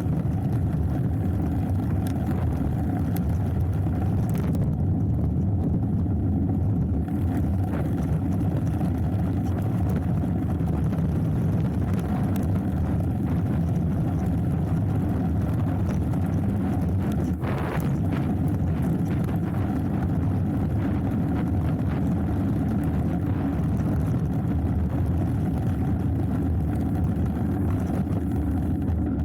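Steady low rush of wind over the action camera's microphone mixed with tyre rumble and rattle from a hardtail mountain bike descending a trail, with occasional light clicks.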